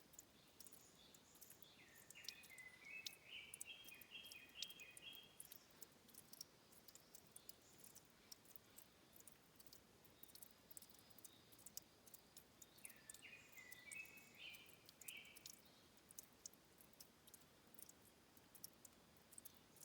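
Faint forest ambience: a small songbird sings a short phrase of rapid repeated notes twice, about two seconds in and again about thirteen seconds in, over faint scattered ticks of dripping water.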